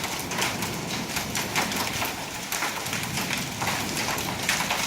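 Heavy rain pouring down mixed with small, BB-size hail, with frequent sharp ticks of hits on hard surfaces over a steady hiss.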